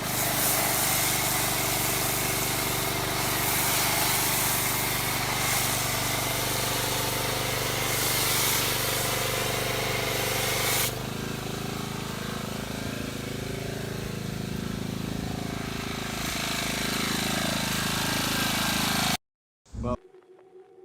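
A motor running steadily under a loud, even hiss. The hiss drops about halfway through, and the sound cuts off abruptly near the end.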